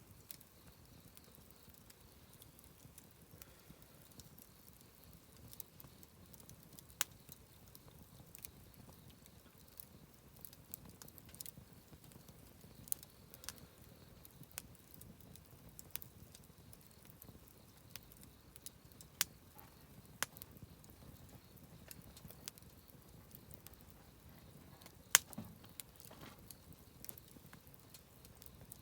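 Wood campfire crackling: irregular sharp pops and snaps, a few of them much louder, over a faint steady hiss of burning.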